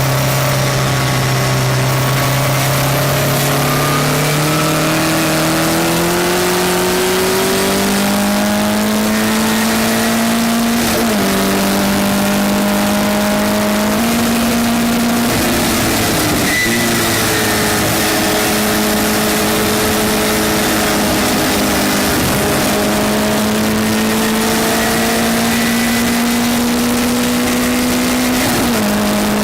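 Westfield race car engine at full throttle, heard from on board over a constant rush of wind. Its note climbs slowly through long pulls, dropping sharply at upshifts about eleven seconds in and just before the end, with a brief lift and dip around sixteen seconds.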